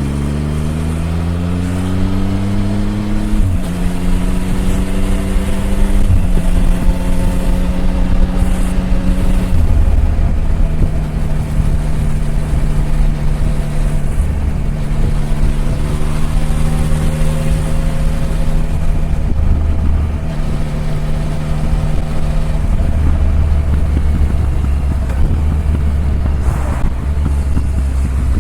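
Triumph Tiger 1050's three-cylinder engine pulling hard, its pitch rising, then stepping down with upshifts at about three and a half, six and ten seconds in. After that it settles into a steady cruise with only small rises and falls in revs.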